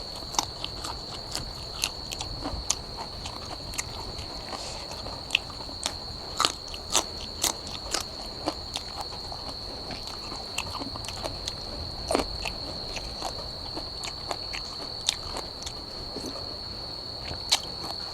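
A person eating a bowl of noodles close to the microphone: chewing and crunching with irregular sharp clicks, a few a second. A steady high-pitched whine runs underneath.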